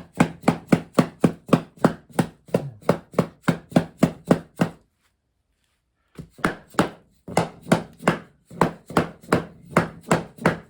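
Rapid hammer blows on a sub-floor tile of compressed wood over foam, about four a second, knocking it into place. They stop for about a second and a half midway, then start again less evenly.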